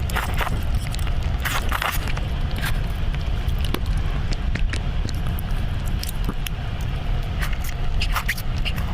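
Close-up eating sounds: scattered sharp crunches and clicks over a steady low rumble.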